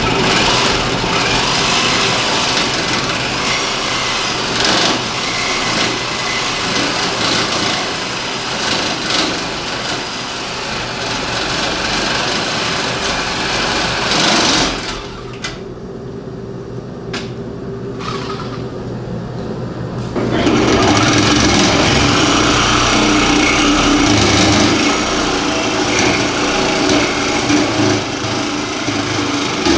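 Reciprocating saw (Sawzall) running and cutting in steady buzzing strokes. About halfway through it eases off for a few seconds, then starts again louder.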